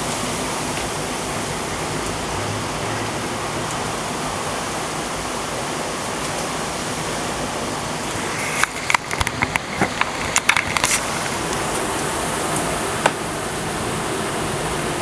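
Torrential thunderstorm rain pouring steadily in a dense, even hiss. About halfway through, a quick run of sharp taps and clicks cuts in over it for a couple of seconds, with one more a little later.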